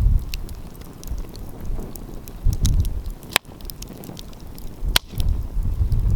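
Wood fire crackling, with two sharp loud pops about halfway through and again a second and a half later, while gusts of wind rumble on the microphone.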